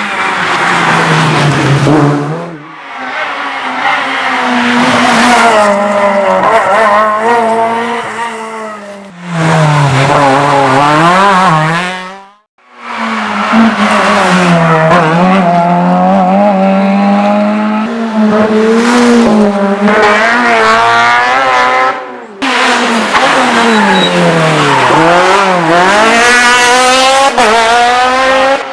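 Rally cars driven flat out on a special stage: engines revving high and dropping again through gear changes and lifts. It comes as a series of short passes cut one after another.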